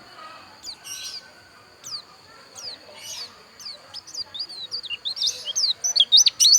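Pleci dakun (Bali white-eye) singing: short, high, falling chirps about half a second apart, breaking into a fast, louder twittering run about five seconds in.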